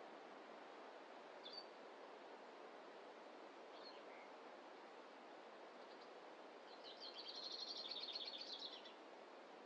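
Faint, steady forest ambience with a soft rushing haze, a few short bird chirps, and a rapid trilling bird song of about two seconds near the end, the loudest sound here.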